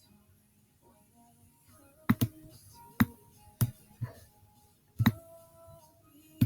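Computer mouse clicking, about six sharp clicks spaced irregularly from about two seconds in, some followed by brief short tones.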